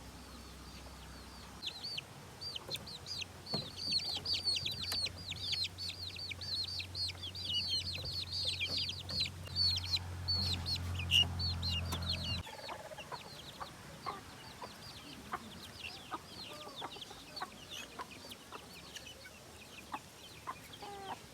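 Many birds chirping in quick, short, high calls that fall in pitch, densest for the first ten seconds and then thinning out. Under them runs a low steady hum that cuts off about twelve seconds in.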